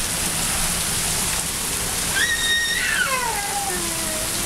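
Heavy rain falling steadily. About two seconds in, a child's high call holds for a moment, then slides down in pitch.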